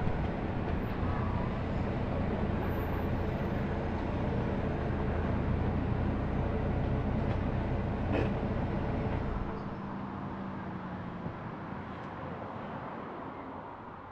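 Car engine hum and road noise heard from inside the car. The deep part of the hum drops away about two-thirds through, and the remaining sound fades out steadily.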